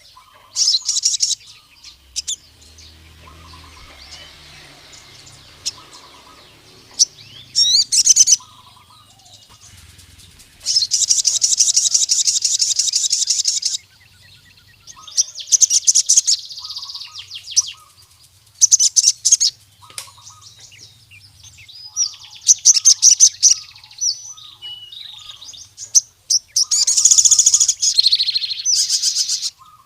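Sogon sunbird song: repeated bursts of high, rapid chirping and trilling, the longest a dense trill of about three seconds near the middle, sung as a male's call to a rival male.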